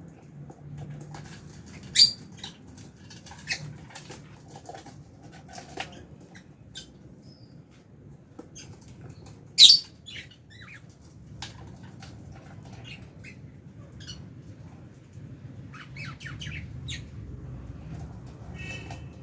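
Aviary lovebirds chirping, with many short shrill calls scattered throughout and two much louder sharp shrieks about two seconds in and near the middle.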